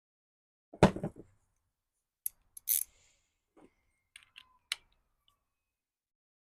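Small carburetor parts being handled and fitted by hand: one knock about a second in, then a few light, scattered clicks.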